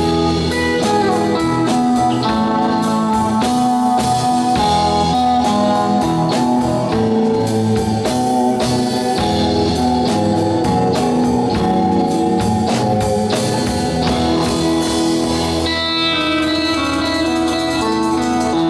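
Live rock-and-roll band playing an instrumental passage, with guitar over a steady drum beat.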